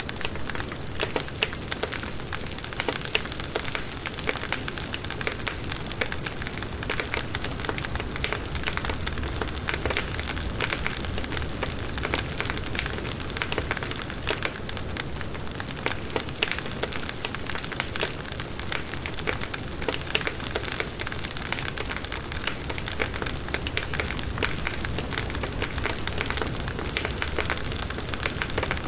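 Firewood burning in a campfire, crackling and popping continuously with a dense run of small snaps.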